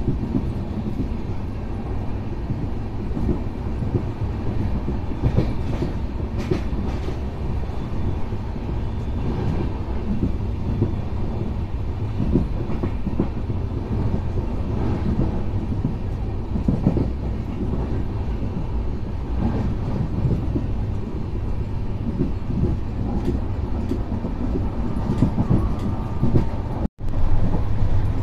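Indian Railways passenger coach running at speed, a steady loud rumble and rattle with scattered clacks of the wheels over rail joints, heard from the coach's open door. The sound cuts out for an instant near the end.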